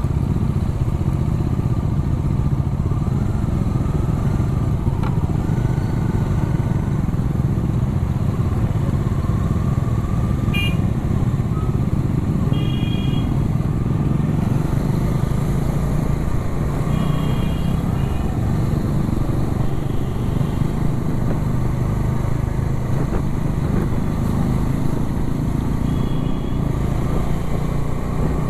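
Motorcycle running steadily at road speed, a continuous engine and road rumble heard from the rider's position. Short high beeps, the kind a vehicle horn gives, come several times: around a third of the way in, again a couple of seconds later, past the middle, and near the end.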